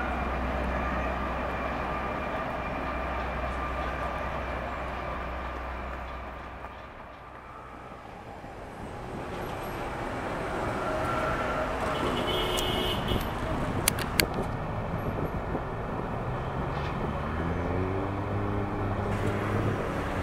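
Electric trains passing: first a Paris Métro train running steadily over a viaduct with a low hum, then, after a short dip, a train rolling past with a couple of sharp clicks from the track and steady whines, and near the end an electric train's motor whine rising in pitch.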